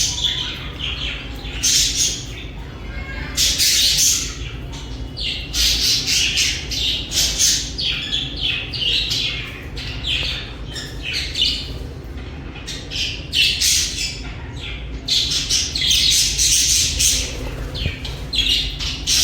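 Budgerigars chirping and chattering in rapid, scratchy calls, in several busy flurries with short lulls between.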